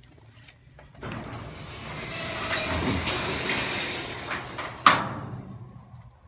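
Arrow shed's roll-up garage door being rolled along its track: a rattling rumble that builds, then fades, ending in one sharp clank about five seconds in.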